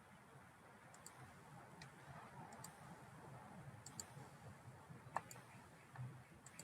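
Computer mouse clicking: a few separate, sharp clicks spaced irregularly about a second apart, over a faint quiet room.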